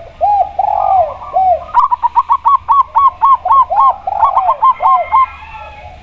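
A spotted dove and a zebra dove calling together: a few slow, lower coos, then from about two seconds in a fast run of short, higher coos, about five a second, with lower coos mixed in, stopping shortly before the end.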